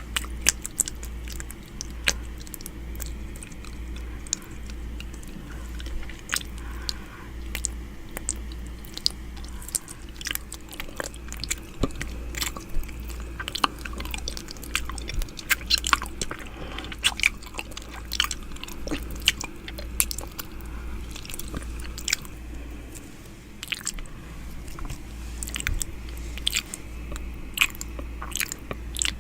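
ASMR 'ear eating' mouth sounds made right at the microphone: irregular wet clicks, smacks and nibbling sounds, thickest in the middle stretch, over a low pulsing hum.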